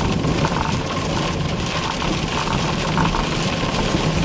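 Steady car cabin noise while driving: engine hum with road and rain noise.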